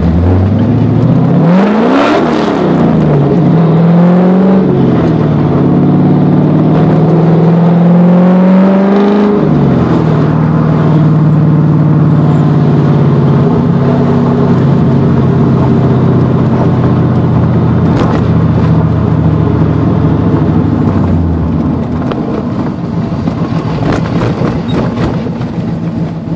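Car engine accelerating away from a stop. Its pitch rises and drops back at each gear change in the first ten seconds or so, then holds steady at cruising speed and eases off near the end.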